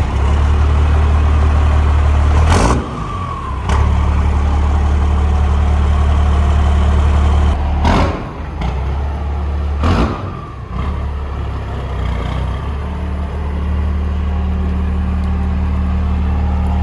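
A diesel engine running steadily at idle, with a few abrupt breaks about three, eight and ten seconds in.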